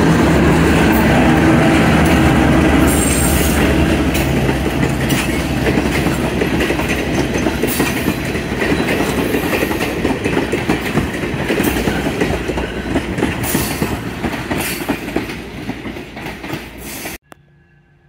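An EMD GP9 diesel locomotive, a two-stroke 567 engine, passes close under power, its engine loud for the first few seconds. The passenger coaches then roll by with steady clicking of wheels over rail joints, fading gradually until the sound cuts off abruptly near the end.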